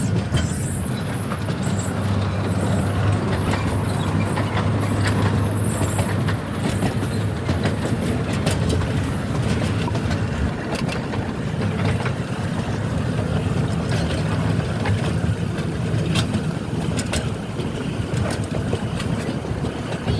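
Passenger train running, heard from on board: a steady low rumble with scattered clicks. A high squeal comes and goes during the first eight seconds.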